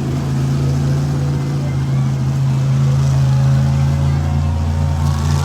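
Monster truck engine idling steadily, a low even hum.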